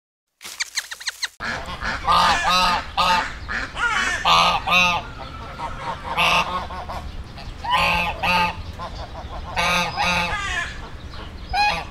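Large birds honking, call after call and often in quick pairs, with several birds calling over a steady low background noise.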